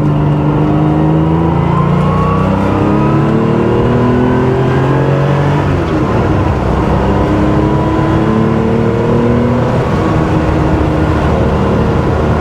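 Air-cooled flat-six of a 1979 Porsche 911 SC, rebuilt as a 3.2-litre short-stroke conversion with a GT3-style exhaust, pulling under acceleration. The pitch rises steadily, drops at an upshift about six seconds in, climbs again, and drops at a second upshift near ten seconds.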